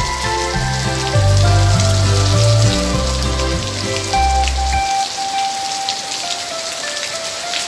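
Steady rain sound under the instrumental backing of a children's song; the bass line stops about five seconds in, leaving a lighter melody over the rain.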